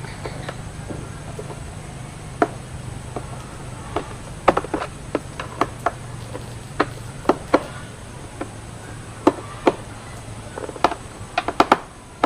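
Irregular clicks and knocks of hard plastic parts and screws being handled as a drip coffee machine's casing is put back together, over a low steady hum that fades near the end.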